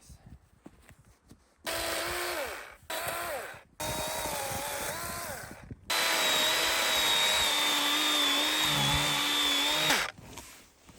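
Chainsaw revving in four runs: two short bursts, a longer one, then a long steady run of about four seconds with its pitch dipping a little under load, as when cutting limbs from a fallen tree. It stops abruptly about a second before the end.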